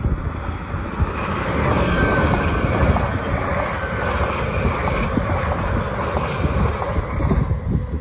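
An LNER electric express passenger train passing close below at speed: a steady rush of wheel and air noise that builds, holds while the coaches go by, then fades near the end. Gusty wind buffets the microphone throughout.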